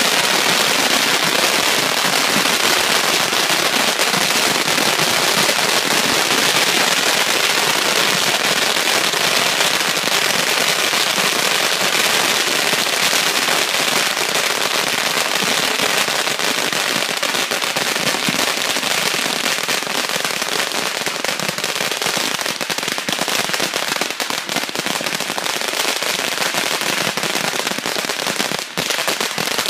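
A long string of firecrackers going off in a continuous dense crackle of rapid pops, with no break, thinning a little in the last third.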